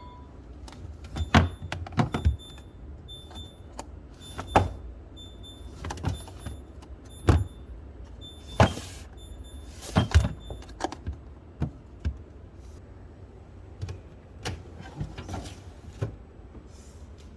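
Containers and food items being handled and set down in a refrigerator: a string of irregular sharp knocks and clicks. Through the first half a faint high tone repeats in short beeps.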